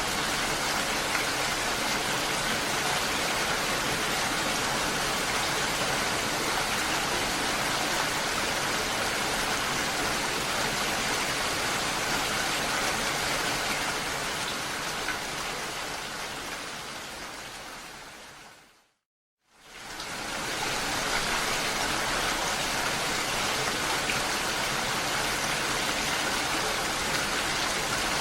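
Steady rush of water noise, like rain or running water. It fades out to silence about two-thirds of the way through and fades back in a second or two later.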